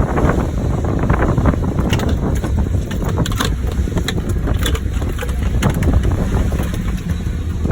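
Strong wind buffeting the microphone on an open boat, a steady rumble with scattered short clicks and knocks.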